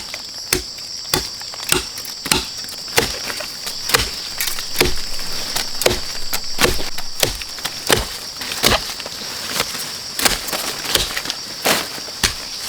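A knife chopping into a giant bamboo shoot, sharp strokes in a steady rhythm of about two a second.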